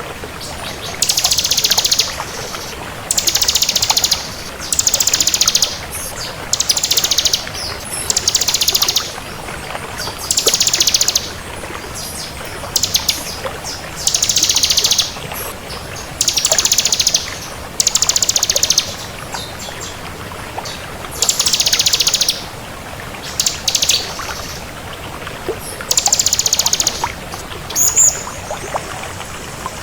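Bar-winged prinia (ciblek kristal) singing: short, high, very rapid trills about a second long, repeated every second or two. A steady faint hiss sits underneath.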